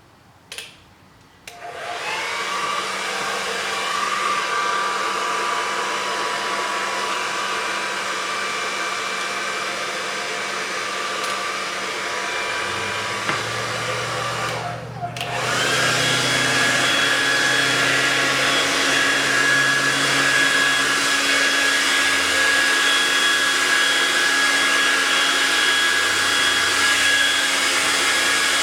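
Hand-held hair dryer switched on about two seconds in and running steadily with a whine. About halfway through it dips for a moment, then comes back louder with a higher, different whine, as if switched to another setting.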